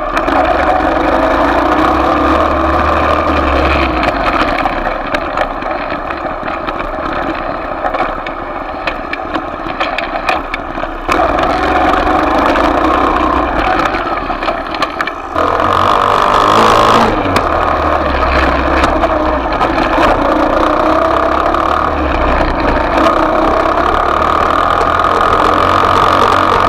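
Small off-road motorcycle engine running and being revved up and down, its pitch shifting throughout, with sudden changes in sound about eleven and fifteen seconds in.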